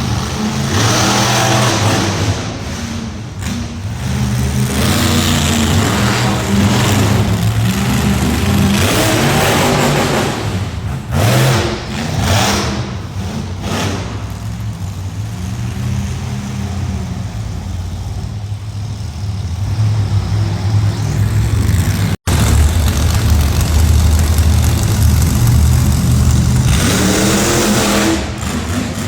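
Monster truck engine revving hard, its pitch rising and falling again and again. The sound cuts out for an instant about two-thirds of the way through.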